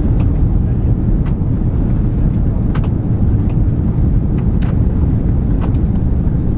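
Steady low rumble of engines and airflow heard inside the cabin of an Airbus A340 airliner on approach, with a few faint brief clicks.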